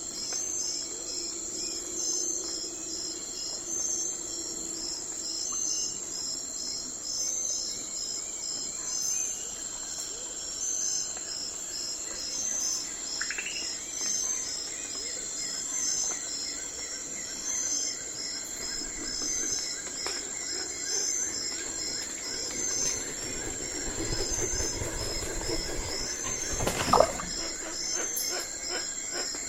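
Night forest ambience: insects chirping steadily in a high, regular pulsing chorus. A single brief call rises about halfway in, and a sudden louder sound stands out near the end.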